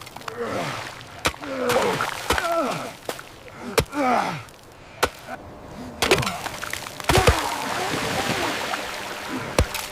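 Men grunting and groaning with effort in short falling cries, while straining to haul on ropes, with several sharp cracks or knocks between them.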